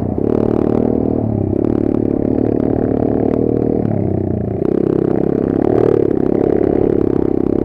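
Kayo 140 pit bike's single-cylinder engine running under load, the revs rising and falling, and getting louder about halfway through.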